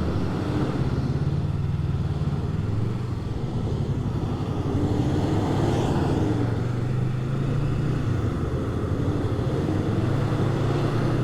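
Yamaha MT-03 motorcycle engine running steadily while riding, its pitch rising and falling slightly, with road and wind noise.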